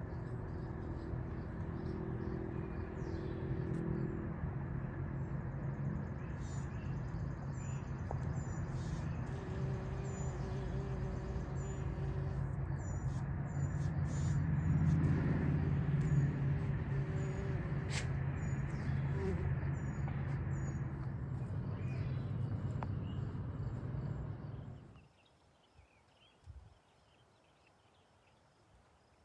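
Small birds chirping in quick repeated notes over a steady low motor hum. Everything drops off abruptly near the end, leaving only faint sound.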